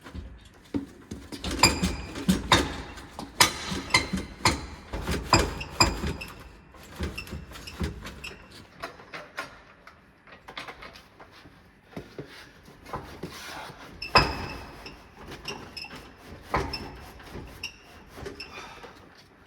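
Irregular metallic clanks and knocks, some ringing briefly, as a 1972 VW Beetle's air-cooled engine is shifted on a jack and worked loose from the gearbox.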